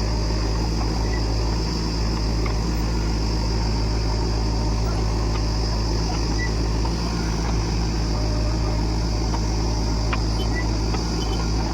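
Heavy diesel engine of earth-moving or farm machinery running steadily at a constant speed, with a few faint clicks and knocks.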